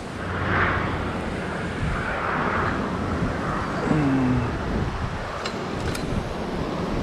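Steady rushing noise of gusting wind mixed with road traffic, swelling and easing, with a brief low sliding tone about four seconds in and a few faint clicks near the end.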